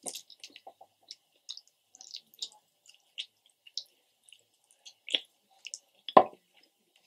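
Close-up eating sounds: gnawing and chewing meat off a KFC fried chicken bone, with scattered wet mouth clicks and smacks, the loudest about six seconds in.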